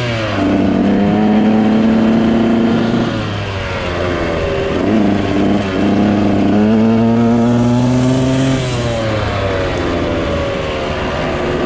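Dirt bike engine under throttle while riding: it rises and holds steady revs, drops briefly about three to four seconds in, climbs again and holds, then eases off a couple of seconds before the end.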